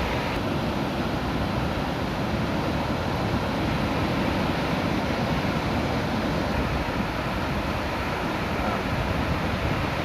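Ocean surf breaking along a beach, a steady even wash of wave noise, with wind rumbling on the phone's microphone.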